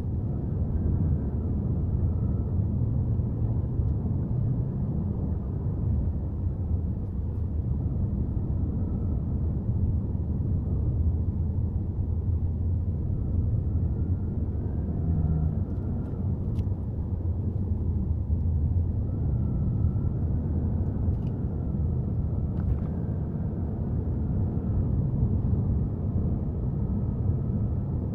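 Subaru Forester on the move: steady low road and engine rumble as heard from a camera inside the car, with a faint wavering whine above it.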